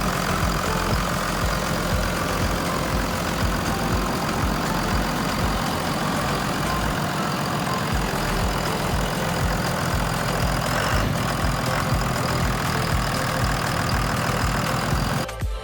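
2000 Dodge Ram's Cummins inline-six turbo diesel idling steadily.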